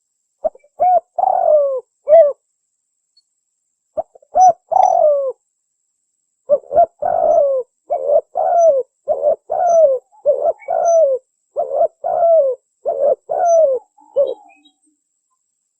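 Spotted dove (tekukur) cooing, a recorded lure call. Two short bouts of coos come first, then from about six seconds in a run of about ten coos in quick succession, each one dropping in pitch at its end.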